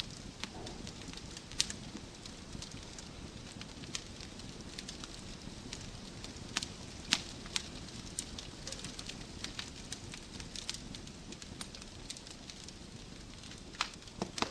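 Wood fire crackling in a fireplace: a steady low hiss with frequent irregular snaps and pops, a few sharper ones standing out.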